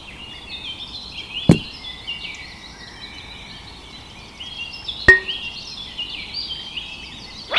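Many birds chirping and chattering continuously, with three sharp knocks: about a second and a half in, about five seconds in, and at the very end.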